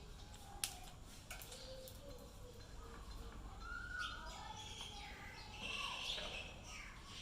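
Mynah bird calling in short whistled chirps that rise and fall, with a sharp click a little under a second in and a few lighter clicks just after it.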